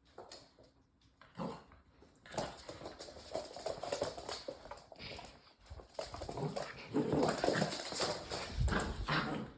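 Labrador puppies making dog noises in two stretches of a few seconds each; the second, from about six seconds in, is the louder.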